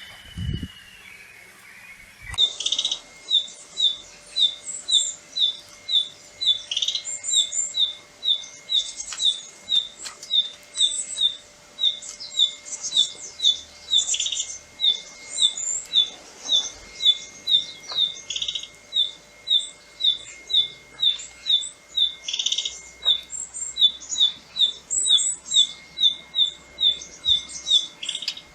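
Wild birds calling: one bird repeats a short, high note about twice a second in an even rhythm, while other birds chirp higher over it.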